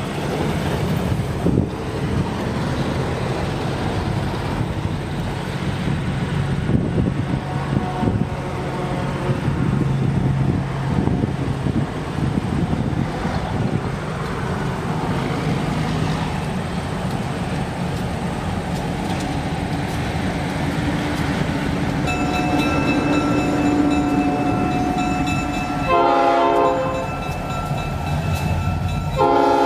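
EMD diesel road locomotives (an SD9 and an SD40-2) running under power as the train gets moving, with a steady low rumble. A steady ringing joins about three-quarters of the way through. Near the end the multi-chime air horn sounds two blasts.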